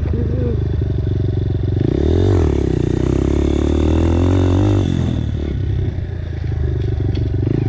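Dirt bike engine running under throttle while riding, the pitch climbing from about two seconds in and falling away near five seconds as the throttle comes off.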